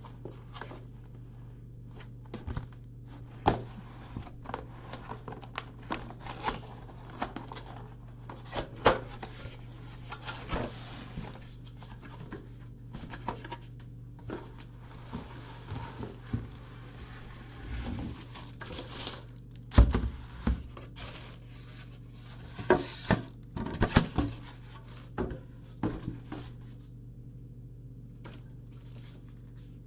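Unboxing of a mini fridge: cardboard and plastic packaging handled, torn and crinkled, with irregular knocks and taps, the loudest about two-thirds of the way through. A steady low hum runs underneath.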